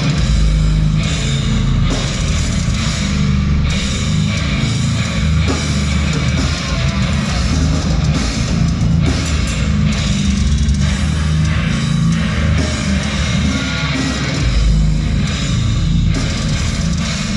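Live heavy metal band playing loudly: distorted electric guitars and a pounding drum kit, recorded from the audience.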